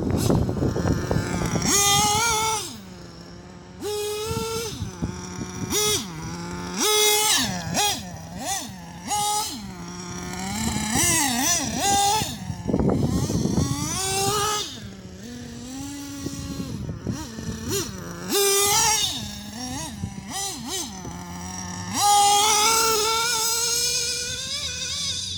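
Nitro engine of a Kyosho Inferno MP9 TKI4 1/8 buggy, an Alpha Racing .28 five-port, revving up and down as the buggy is driven, its pitch rising and falling with each burst of throttle, with loud surges about two seconds in, near the middle and near the end.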